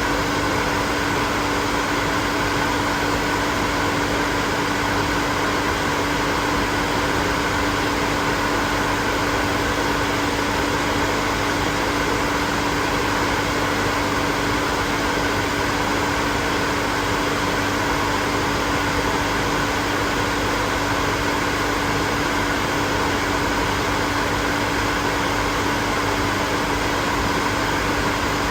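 Hair dryer running steadily: a constant rush of blown air with a steady motor hum underneath, unchanging in level or pitch.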